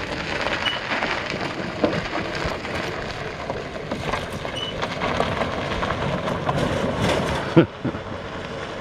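1960 Tee Bird electric golf cart running on its 48-volt battery pack, with a steady crackling, rattling noise as it rolls along. A short, sharp sound comes near the end.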